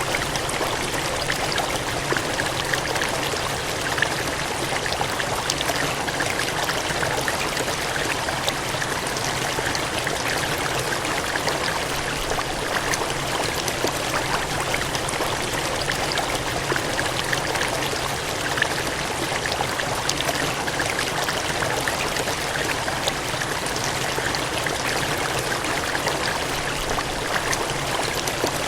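Water gushing and cascading in a steady rushing flow, even and unbroken.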